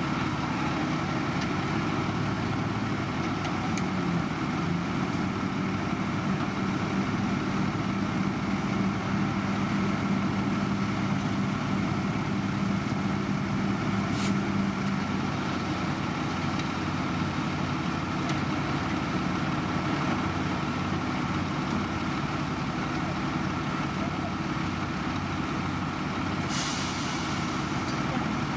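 Heavy diesel construction machinery running steadily, with a constant engine drone. There is a single click about halfway through and a short hiss near the end.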